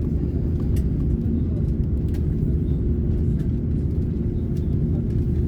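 Steady cabin noise inside an Airbus A330neo: a low rumble with a constant hum and a few faint clicks.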